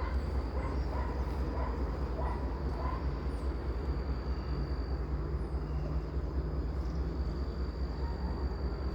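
Outdoor ambience: a steady low rumble under a thin, steady high whine, with short high chirps scattered through.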